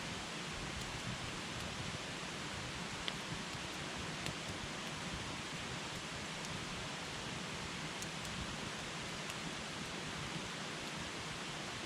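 Wood campfire burning with a steady hiss, broken by a few sharp crackles of the burning wood.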